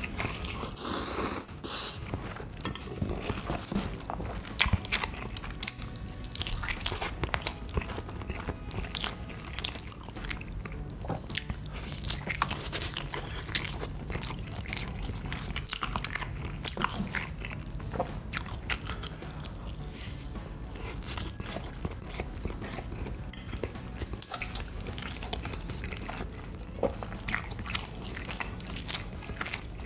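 A person biting and chewing food, with frequent crunchy bites, as irregular close clicks throughout.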